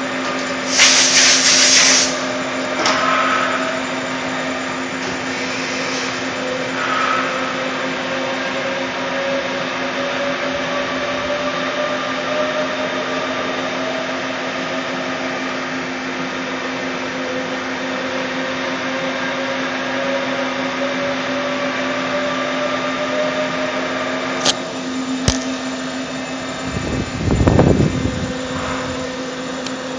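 Doosan Puma 350 CNC lathe running, with a steady hum under a whine that slowly rises in pitch and starts over several times. A loud hissing burst comes about a second in, and two sharp clicks and a short low rumble come near the end.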